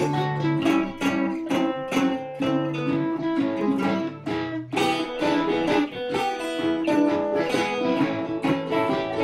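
Instrumental break of a live blues song: acoustic string instruments strumming chords in a steady beat, with no singing.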